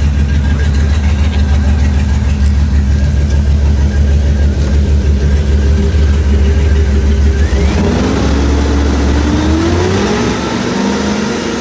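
GM 6.0L V8 engine idling steadily, then revved up from about seven and a half seconds in, its pitch climbing and holding high before starting to fall near the end.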